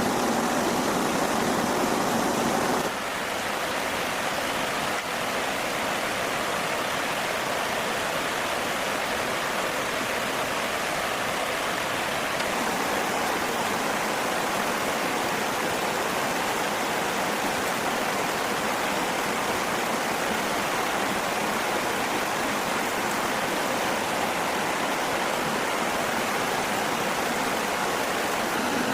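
Steady rushing noise of running water, shifting slightly in tone about three seconds in.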